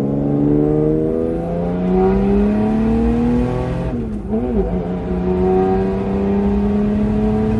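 Turbocharged Mercedes OM606 3-litre straight-six diesel in a Land Rover Discovery 2, heard from inside the cabin under hard acceleration. The engine note climbs steadily, drops with a brief warble about four seconds in as it changes gear, then climbs again.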